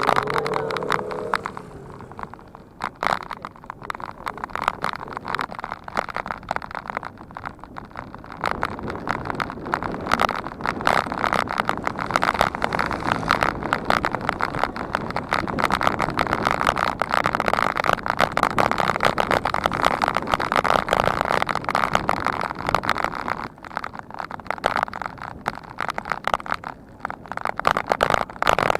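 Bicycle riding noise picked up by the camera microphone: a dense, steady stream of rattling and rushing from the bike and its tyres on the road, growing louder about a third of the way in and easing briefly near the end.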